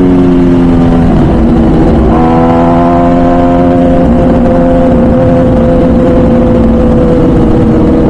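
MV Agusta Brutale 1000RR's 998cc inline-four running through its full titanium Arrow exhaust while riding: the engine note falls, steps up about two seconds in, then holds nearly steady and sags slowly as it cruises.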